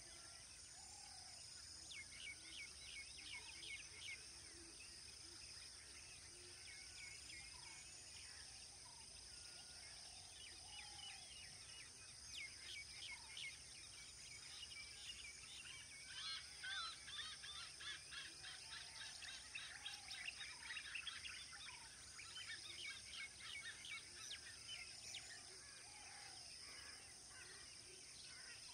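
Faint birdsong: bouts of rapid chattering trills, densest in the second half, with scattered short whistled notes and a thin steady high whine underneath.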